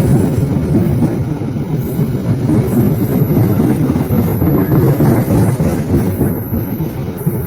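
KAI CC206 diesel-electric locomotive and its train running, a loud steady heavy rumble that eases slightly near the end.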